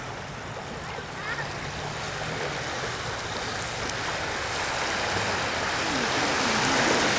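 Sea waves washing up on a sandy beach, a steady rush of surf that swells louder toward the end.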